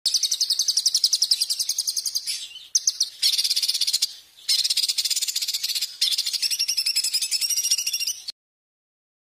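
Recorded songbird singing high, rapid repeated notes, about ten a second, in long strings broken by short pauses; it cuts off suddenly near the end.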